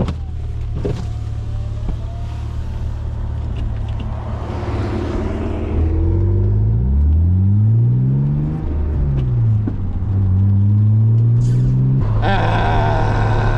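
BMW E36 M3's inline-six engine heard from inside the car: it runs steadily, then the revs sweep sharply up and fall back about six to nine seconds in before settling at a higher steady note. The rev flare comes as the car spins out on the wet track and the driver clutches in.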